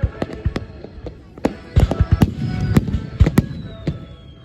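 Aerial fireworks bursting in quick succession, a rapid string of sharp bangs that is densest around two seconds in, with music playing along.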